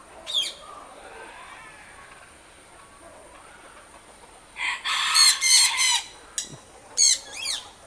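A rooster crowing once, a loud call of about a second and a half that starts about five seconds in. Shorter bird chirps come just before it and again near the end.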